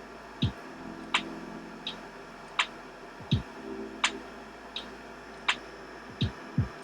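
Regular ticking, a sharper tick and a softer one alternating about every three quarters of a second, over a steady low hum. A few short low falling swooshes come near the start, in the middle and near the end.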